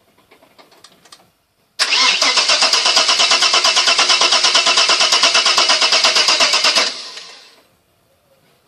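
Vauxhall Cavalier 3-litre V6, freshly rebuilt, cranking on the starter motor with a fast, even beat for about five seconds, then stopping; the engine does not run on.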